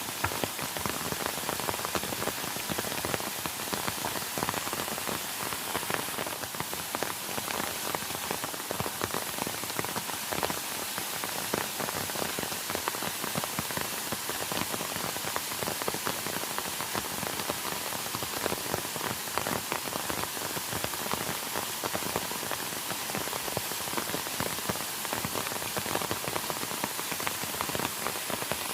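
Steady heavy rain, many drops pattering without a break.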